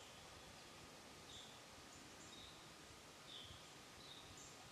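Near silence in the woods, with faint, short high bird chirps about every second.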